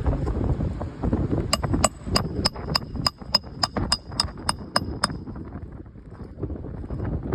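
Wind on the microphone, then about a dozen quick, evenly spaced hammer strikes with a ringing metallic note, about three a second, stopping about five seconds in. This is a hammer driving a roofing nail to fasten a replacement asphalt shingle.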